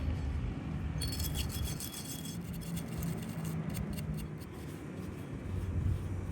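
Hand work on small metal parts: rubbing and scraping with light clinks and ticks over a steady low hum, the clinks ringing most clearly between about one and two and a half seconds in.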